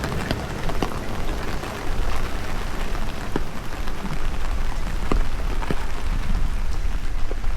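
Steady rain falling, with scattered sharp drops striking close by, over a low rumble of strong wind buffeting the microphone.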